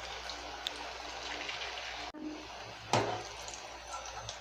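Samosas deep-frying in hot oil in a pan, a steady sizzle. The sound drops out briefly about two seconds in, and a single sharp knock comes about a second later.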